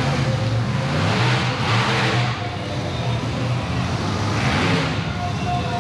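Monster truck engine running and revving, swelling and easing off a few times.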